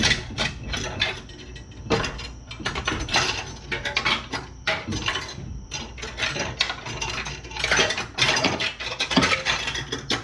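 Metal brake parts clinking, knocking and scraping as a caliper and its pads are handled at the wheel hub, a run of quick irregular clatters.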